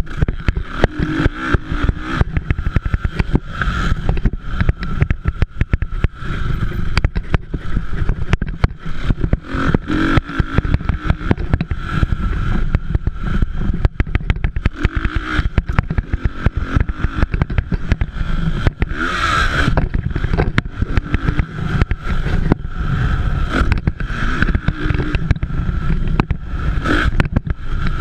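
Motocross dirt bike engines racing, revving up and easing off as bikes pass, over a constant rough, crackling rumble.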